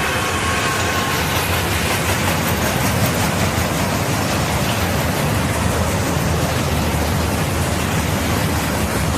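Railroad cars rolling past with a steady rumble, and a thin wheel squeal that fades out in the first second or so.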